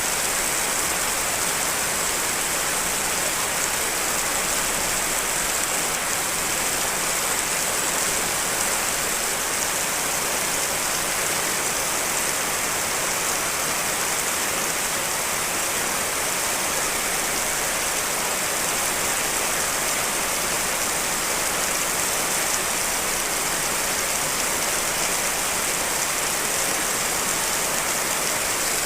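Steady rain, an even hiss of many drops with its brightest part high up, mixed from several real rain recordings.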